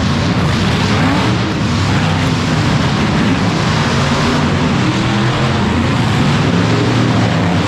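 Monster truck engines running hard and loud, their pitch rising and falling as the trucks rev.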